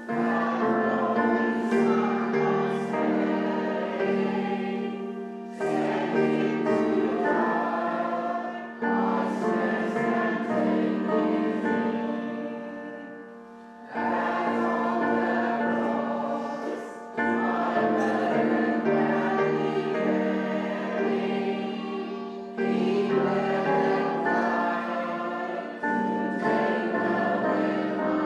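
Congregation singing a hymn together with keyboard accompaniment, in phrases of a few seconds with short breaks between them.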